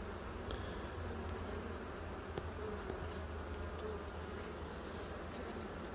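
Honeybees buzzing over an open hive: a steady, even hum with a few faint ticks.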